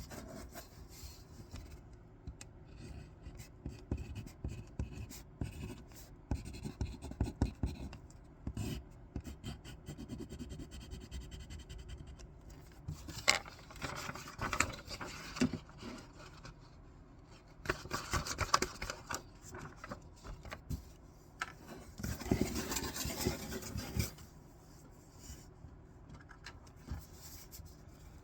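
Scissors snipping through paper in many short cuts, with paper rustling and rubbing as the sheet is handled and turned; a few longer rustling passes come partway through.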